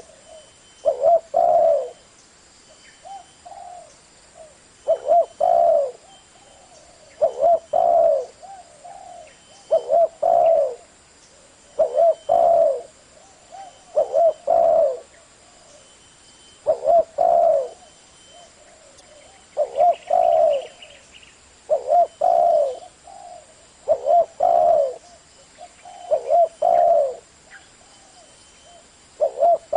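Spotted dove cooing: a phrase of two or three low coos, repeated every two to three seconds.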